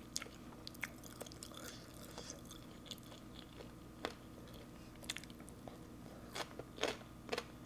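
Close-miked chewing and crunching of green papaya salad (som tam) eaten with sticky rice by hand: scattered crisp crunches and wet mouth clicks, with a cluster of louder ones near the end as a fresh mouthful goes in.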